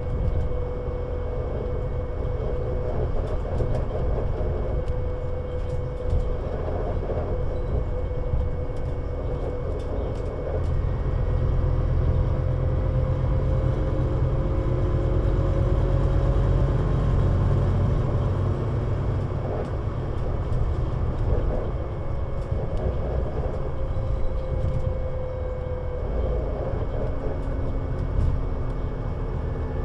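Engine and drivetrain of a Scania Citywide LFA articulated bus (CN320UA 6x2/2) running steadily, a deep rumble with a faint whine that drifts slowly up and down in pitch. It grows louder for several seconds in the middle.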